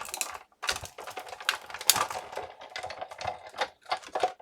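Irregular clicks and clacks of plastic cutting plates and a steel-rule die being handled and flipped while die cutting cardstock.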